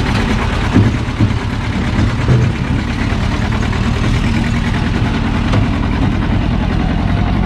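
Car engine running steadily while driving, with a few brief low bumps in the first few seconds.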